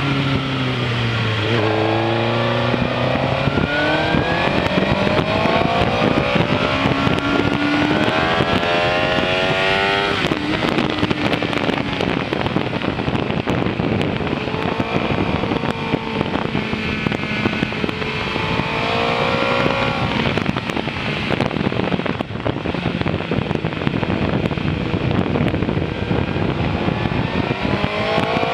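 Suzuki GSX-R 600's inline-four engine heard from the rider's seat, revs climbing hard in several stepped sweeps through gear changes, then dropping and climbing again in shorter pulls between the bends. Heavy wind rush on the microphone runs under the engine throughout.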